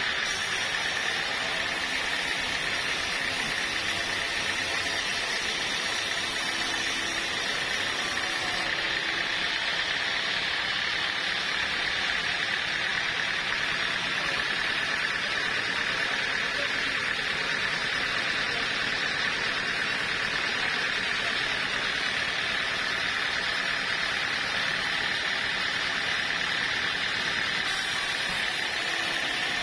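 Sawmill saw running steadily with a constant high whine, cutting teak.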